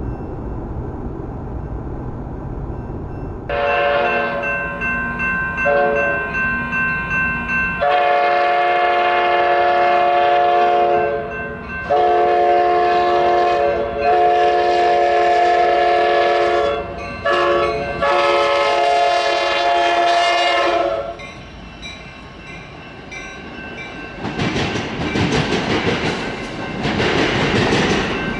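Diesel locomotive's multi-chime air horn sounding a series of long blasts for a grade crossing, followed near the end by the train rolling past with steady wheel-and-rail clatter.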